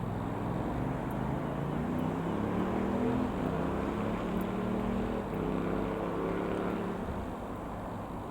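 Propeller engine of a Comco Ikarus C-42 FB80 microlight, a Rotax 912 flat-four, droning as the aircraft goes by. Its pitch rises over the first few seconds, with the sound loudest in the middle, then the pitch falls and the sound eases off near the end.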